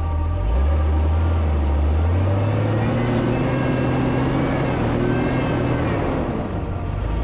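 Off-road vehicle engine running under load, its pitch stepping up about two seconds in.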